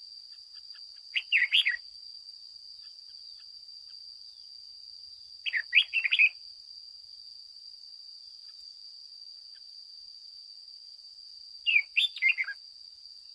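Red-whiskered bulbul singing three short warbled phrases, each under a second and about five seconds apart, over a steady high-pitched hum.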